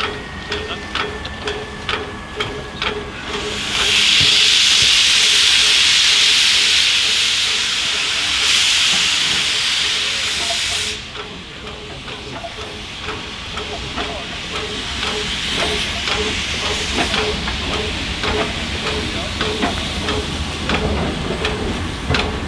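Steam locomotive venting steam: a loud hiss that starts about three and a half seconds in, lasts about seven seconds and cuts off suddenly. Before and after it a steady rhythmic beat of about two pulses a second with light clicks carries on.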